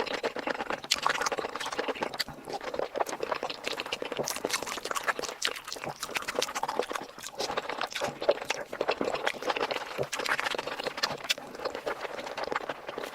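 Close-miked eating sounds: wet chewing and lip smacks, a steady run of small clicks.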